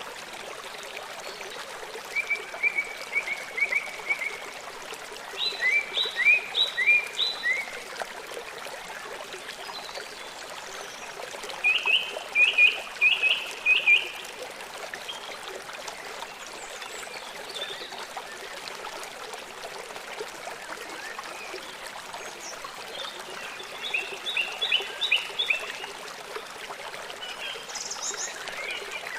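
Songbird singing four short phrases of quick repeated chirps, spaced several seconds apart, over the steady rush of running stream water.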